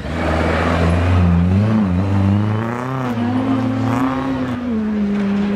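Rally car engine revving hard. Its pitch drops briefly about two seconds in, then climbs and holds high as the car is driven through the corner on the throttle.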